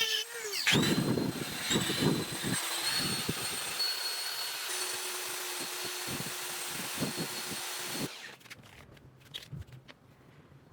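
A high-speed power tool running with a steady high whine, its pitch surging and grinding irregularly as it is worked against the piece. It stops about eight seconds in, leaving only faint light clicks of handling.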